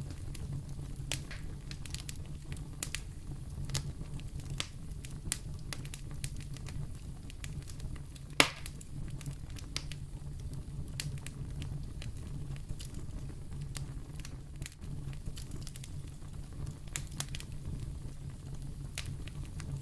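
Fire burning in a fireplace: a steady low rumble of flames under irregular small crackles, with one sharp, louder pop about eight seconds in.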